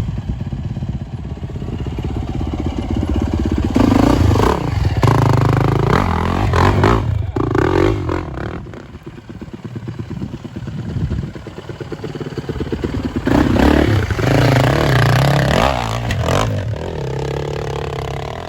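Off-road motorcycle engine revving hard in two long bursts, the first about four seconds in and the second about thirteen seconds in, dropping back between them.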